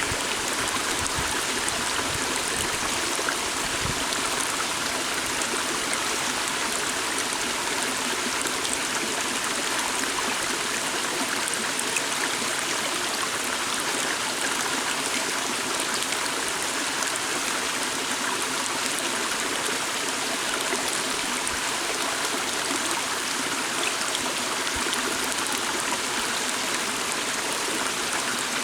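A small forest stream flowing steadily, an even rush and trickle of water over stones.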